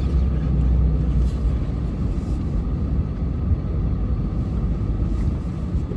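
Plow truck engine running under load while pushing snow: a steady low rumble, heaviest for the first second and a half.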